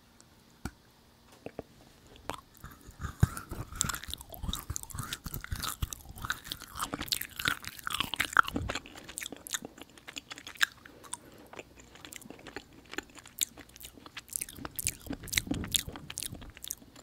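Close-miked mouth sounds of chewing a sticky, chewy Hadir dried date (sold as dried jujube): irregular wet smacks and clicks that begin about two seconds in and keep going.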